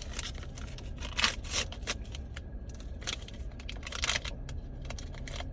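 Plastic toy packaging being handled and torn open, with scattered crinkles and a few sharp snaps, the loudest a little after one second in and again near four seconds in.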